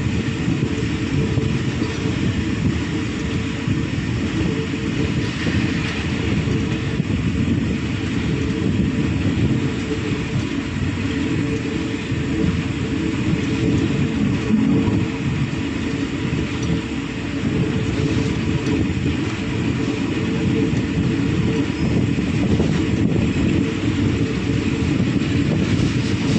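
Passenger train running through a station, its wheels rolling on the rails in a steady rumble with a faint steady hum, heard from the train's open window or doorway.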